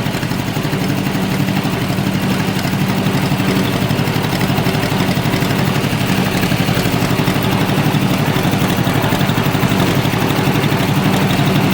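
Tractor engine running at a steady speed while the tractor is driven along, with an even firing rhythm and a strong low hum.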